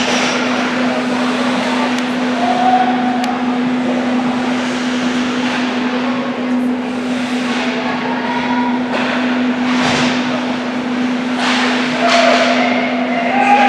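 Youth ice hockey game play in a rink: skate blades scraping the ice and sticks and puck knocking, over a steady low hum, with a few brief distant shouts.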